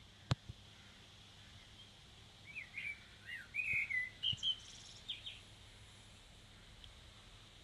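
A sharp click just after the start, then a bird chirping: a quick run of short chirps rising and falling in pitch in the middle, over a faint steady background hum.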